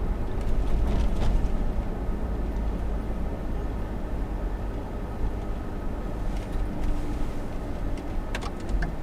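Low, steady rumble of a car's engine and tyres heard from inside the cabin while driving, with a few sharp clicks near the end.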